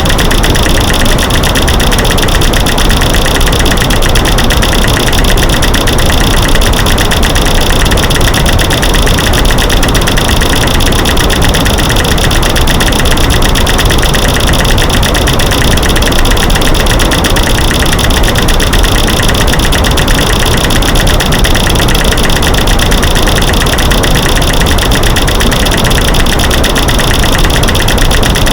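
A loud, unbroken stream of rapid clicks and knocks, from light switches clicking, sticks snapping and rocks banging, layered over steady white noise: a mixed masking noise meant to cover creaky floors.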